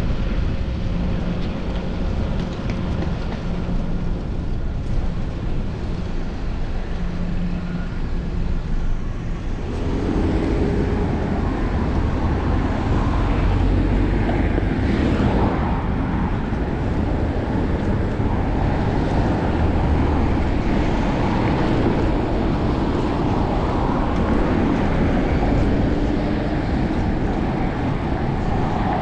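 Road and traffic noise from a bicycle ride through city streets: wind on a body-mounted action camera's microphone, tyre noise and passing cars, growing louder about ten seconds in.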